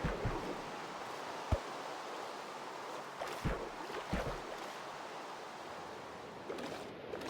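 Steady rain hiss, with a few short dull knocks scattered through it.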